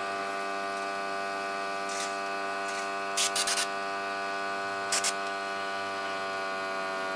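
Steady electric hum, with a quick run of four sharp clicks about three seconds in and two more about five seconds in.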